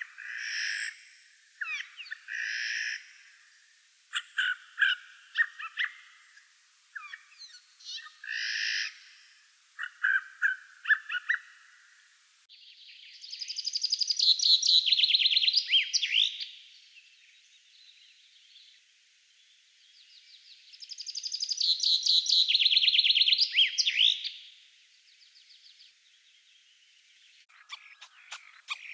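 Forest songbirds singing. Short chirps and song phrases come first. Then comes a different recording with two long trilled songs of about three to four seconds each, rising to a quick flourish at the end. A new bird's rapid calls begin near the end.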